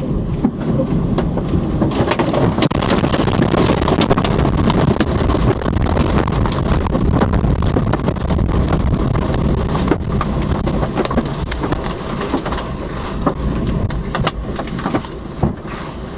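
Tornado wind and heavy rain: a loud, dense rushing noise with many sharp clicks and knocks all through it.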